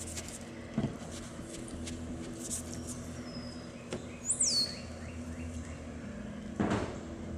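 A single bird call, a quick whistle that rises and falls, about halfway through, over a steady low hum. A brief scuff comes near the end.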